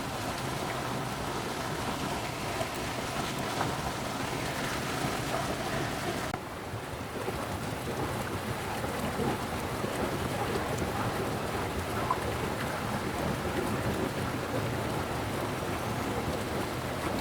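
Steady rain falling, a dense even patter, with a brief dip about six seconds in.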